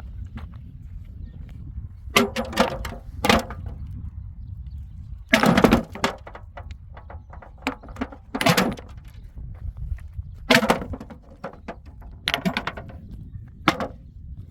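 Irregular knocks and clattering impacts, about nine short bursts at uneven intervals over a low steady rumble, the loudest about five and a half seconds in.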